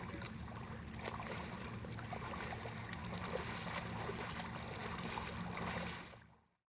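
Faint outdoor water-and-boat ambience: a low steady rumble with scattered small clicks and splashes, fading out to silence about six seconds in.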